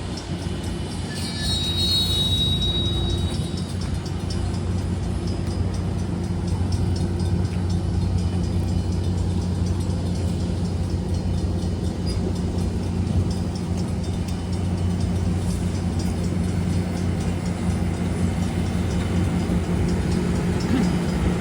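Diesel-electric locomotive engines running with a steady low drone. A brief high-pitched tone sounds about two seconds in.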